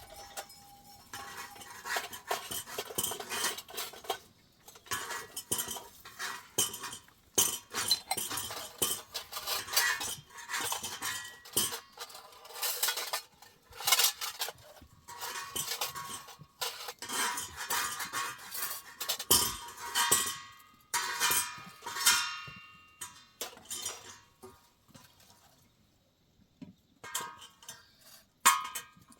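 Metal dishes and utensils clinking and scraping as they are handled, in irregular clusters with some short ringing tones. It goes quiet for a couple of seconds near the end, then a few more clinks.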